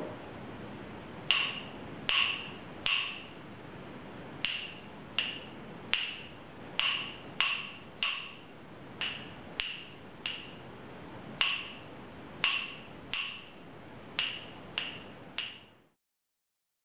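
A series of about eighteen sharp, hard taps at an uneven pace, roughly one or two a second, each with a brief high-pitched ring. They start about a second in and stop shortly before the end.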